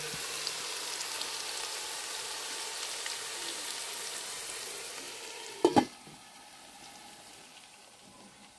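Food frying in a pan, a steady sizzle that gradually dies down. About six seconds in come two sharp knocks close together, the loudest sound.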